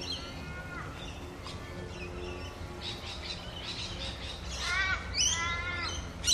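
Birds calling outdoors: a harsh call near the start, fainter calls in the middle, then a louder run of several quick calls about five seconds in.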